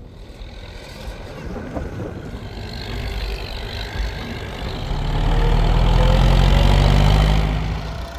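A motor vehicle's engine passing close by, growing louder to a peak about five to seven seconds in, then fading away.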